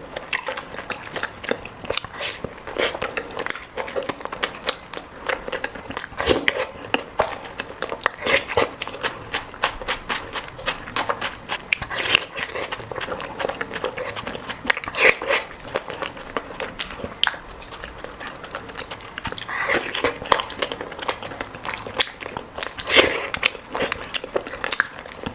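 Close-miked eating: steady chewing and biting with frequent short crunches and wet mouth clicks.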